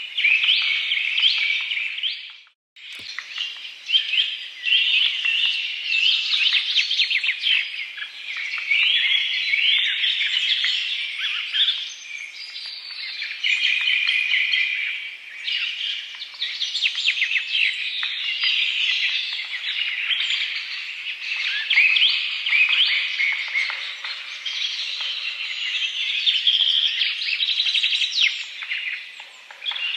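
A dense chorus of many small birds chirping and trilling, with overlapping calls throughout. The sound cuts out briefly about two and a half seconds in.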